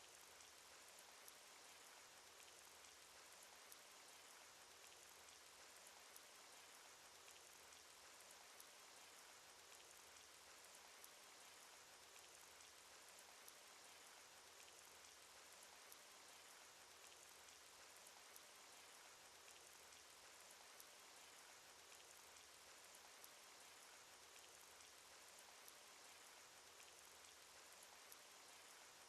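Faint, steady rain sound effect from a cartoon: an even hiss of rainfall with scattered patter of individual raindrops.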